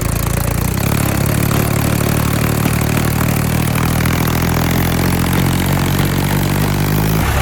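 A heavy vehicle's engine running steadily at low revs. Its note shifts slightly about a second in and again near the end.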